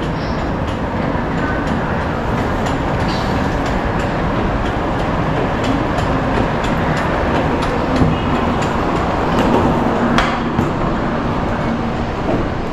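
Taiwan High Speed Rail 700T train at the station platform: a loud steady rumble with a string of light clicks and a couple of sharper knocks near the end.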